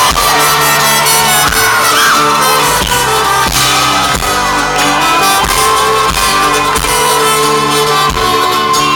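Live folk-rock band playing an instrumental passage, loud and full, over a steady kick-drum beat.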